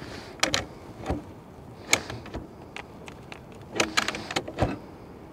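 A series of short, sharp knocks and clunks at irregular intervals, about seven or eight in a few seconds, from hands-on work on the wooden deck framing.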